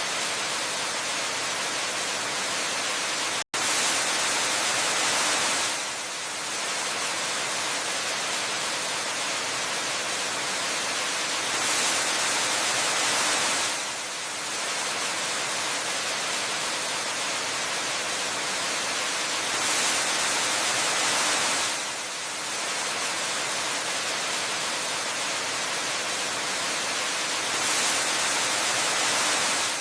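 Steady rush of a waterfall, an even hiss with no tones. It swells a little louder for about two seconds roughly every eight seconds. There is a split-second dropout about three and a half seconds in.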